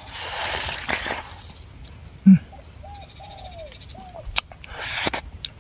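A bird calling a short run of arching notes in the middle, amid rustling, one short low thump-like sound and a few sharp clicks.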